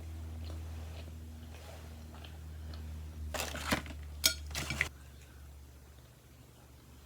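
Dishes and utensils clattering during a meal, in a short burst of sharp rattles about three and a half to five seconds in. Underneath is a steady low hum that cuts off at about five seconds.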